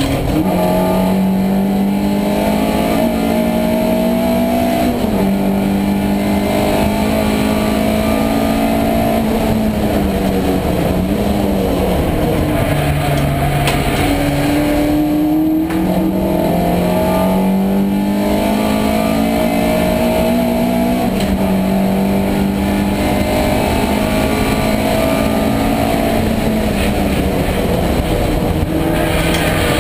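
Racing car's engine heard from inside its stripped, roll-caged cabin, driven hard on track. The engine note keeps climbing with the revs and dropping again several times at gear changes and braking.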